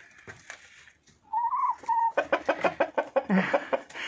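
Domestic hens clucking: a short pitched call about a second in, then a fast run of clucks for about two seconds.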